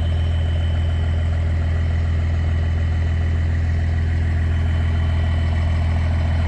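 A vehicle engine running steadily, a constant low drone with no revving.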